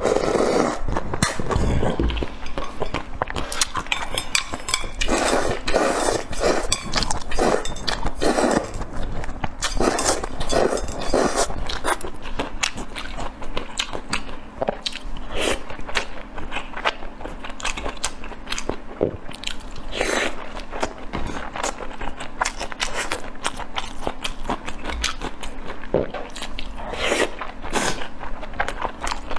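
Close-miked eating: a person biting and chewing food, with a constant stream of small crunches and wet clicks of the mouth.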